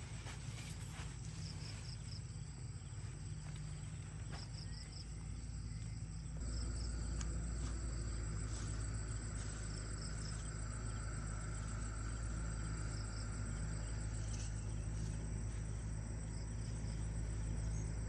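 Insects chirping in short, quick groups of three over a steady high tone, with a low rumble underneath that grows louder about six seconds in.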